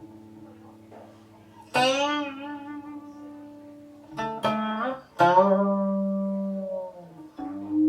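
Guqin (seven-string Chinese zither) played solo, slow and sparse: a handful of plucked notes that ring and fade, their pitch wavering and sliding as the left hand moves along the string. The loudest note comes about five seconds in.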